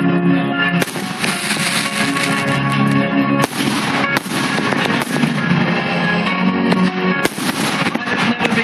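Fireworks display: several firework bangs go off over a loud piece of music that plays throughout.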